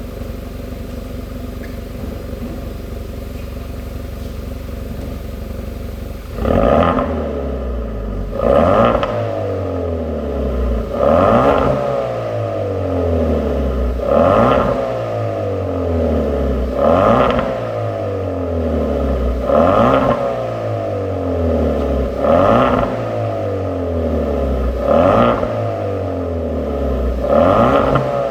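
Hyundai Veloster 1.6 turbo four-cylinder engine through a custom valved exhaust and muffler, idling steadily, then from about six seconds in revved in nine quick throttle blips, each dropping back, roughly every three seconds.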